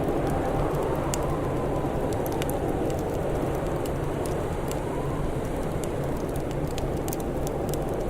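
Wood fire crackling, with irregular sharp pops a few times a second over a steady low rushing noise.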